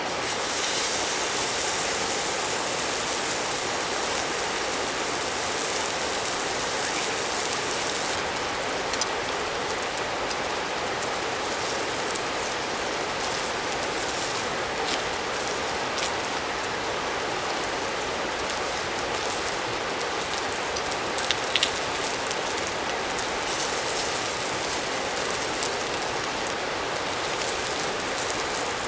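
Steady rush of a mountain stream, with scattered sharp crackles throughout and a brighter hiss over the first several seconds.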